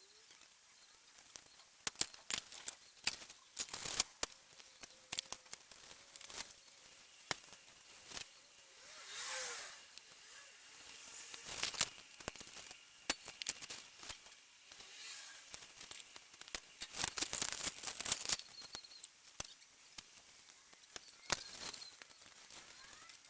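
Irregular metallic clicks, taps and clatters of tools and small parts being handled while valve springs and collets are fitted to a cylinder head, with a couple of longer rustling scrapes about nine seconds in and again a little past the middle.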